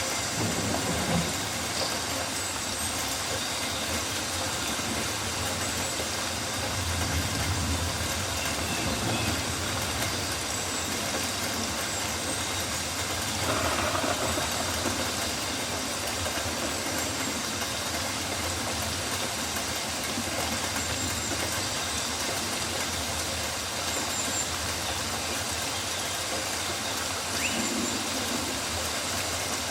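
Rainforest ambience: a steady hiss of rain, with a few faint, short high chirps from birds or insects now and then.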